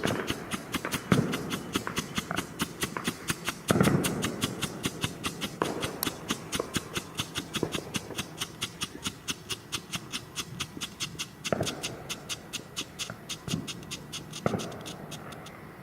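Freedom Fireworks 'Smile' consumer fountain burning: a steady hiss with rapid, evenly spaced pops about four to five a second, typical of its flashing strobe finale, plus a few louder cracks. It fades near the end.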